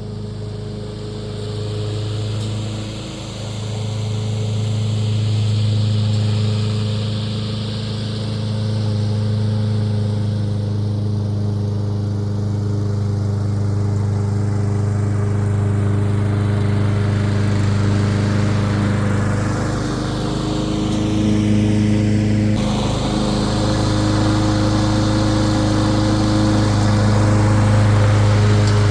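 Walk-behind petrol rotary lawn mower running steadily under load while cutting long grass. The engine note sags briefly a few times, about 3 seconds in and again around 20 to 23 seconds.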